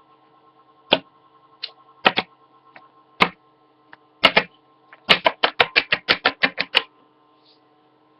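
Hard plastic Littlest Pet Shop toy figures' feet tapped on a hard surface. A few separate clicks come first, then a quick run of about a dozen taps.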